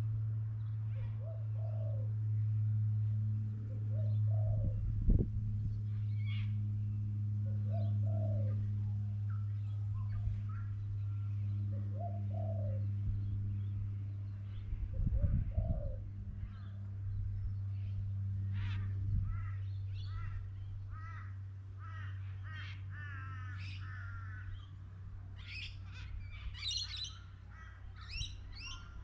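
Birds calling: a low, cooing call repeats about every three to four seconds, with scattered higher chirps that grow busier over the last several seconds. A steady low hum runs underneath, and there are two dull bumps, one about five seconds in and one about fifteen seconds in.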